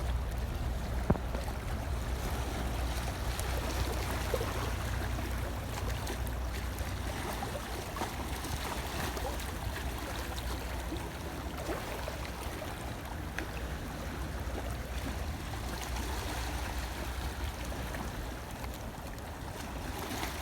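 Sea water washing and surging steadily, with a deep low rumble underneath. A single sharp click stands out about a second in.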